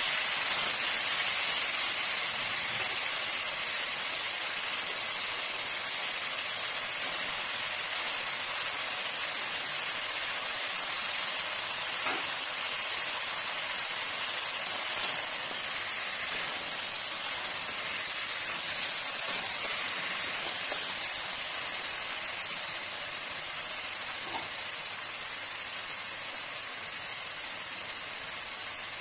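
Potato wedges and onions sizzling in oil in an aluminium kadai: a steady hiss that slowly fades toward the end, with a couple of faint light ticks.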